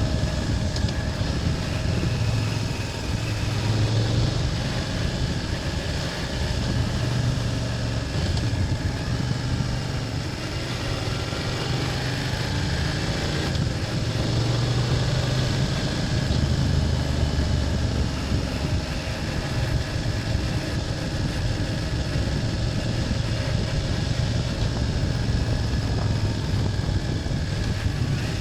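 BMW F800GS parallel-twin engine running on the move, its low note shifting every few seconds as the throttle changes.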